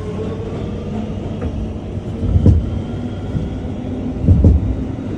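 New York City subway train running, a steady low rumble with a faint whine. Two heavy low thumps come about two seconds apart, the second near the end.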